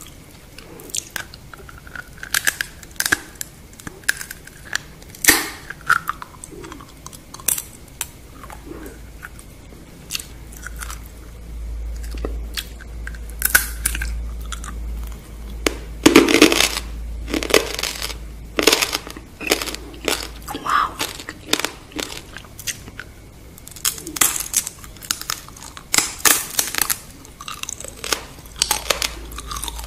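Close-miked chewing and crunching of deep-fried scorpions: the brittle fried shells crack between the teeth in many irregular crisp snaps, with wet mouth sounds between them.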